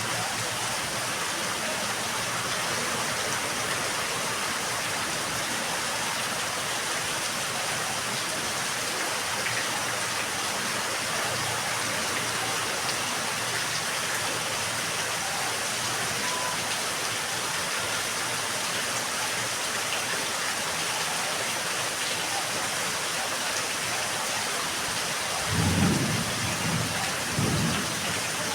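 Steady rain falling in a yard, an even hiss. Near the end, thunder rumbles low in a few rolling swells.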